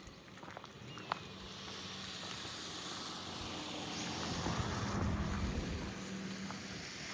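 A motor vehicle passing by, its engine and tyre noise building to a peak about five seconds in and then easing off.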